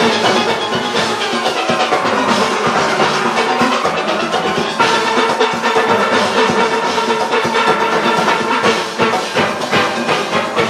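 A large steel orchestra playing: many steelpans ringing together over a steady beat of drums and percussion, with the sustained notes shifting about five seconds in.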